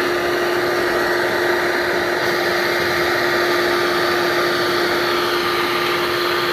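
Vacuum running steadily with a constant whine, sucking up a bee swarm during a removal.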